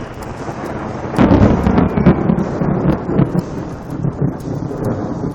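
Rolling thunder, swelling loudly about a second in and rumbling on with uneven peaks.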